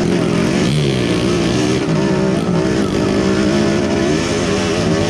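Kawasaki KMX125's two-stroke single-cylinder engine running under way, its revs rising and falling repeatedly.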